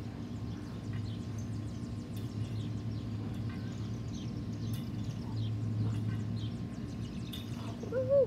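Small birds chirping intermittently over a steady low hum, with a short voice-like sound that rises and falls just before the end.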